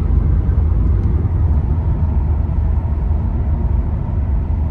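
Inside the cabin of a moving Ford Falcon BF XR6, a steady low rumble from its inline-six engine and road noise under light driving.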